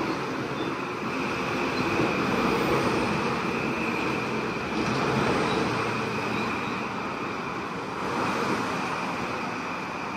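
Metro-North M8 electric multiple-unit cars rolling past along the platform: a steady rumble of wheels on rail, with a faint steady high whine over it.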